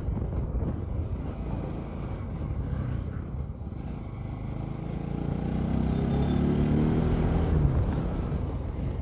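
Bajaj Pulsar NS200's single-cylinder engine running on the move, with wind rushing over the microphone. About halfway through, the engine note climbs steadily as the bike accelerates, then falls away shortly before the end.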